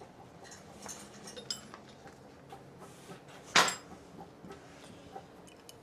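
Metal tools and engine parts clinking and tapping during hand work on the engine, with one louder sharp metallic knock about three and a half seconds in.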